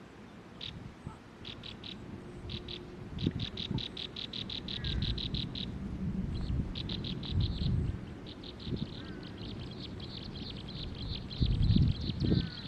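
Nestling birds begging: rapid trains of short, high chirps, about eight a second, coming in runs that grow longer and almost continuous in the second half. A low rumbling noise runs underneath, strongest near the end.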